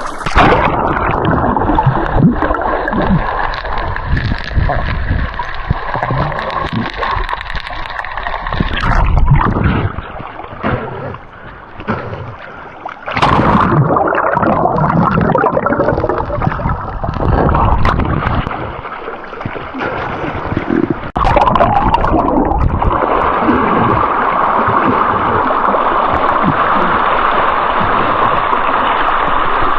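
Fast river water in a rapid rushing and gurgling around a swimming diver, with splashing. The noise dips and then jumps back suddenly louder twice, about halfway through and again about two-thirds of the way through, settling into a steady rush.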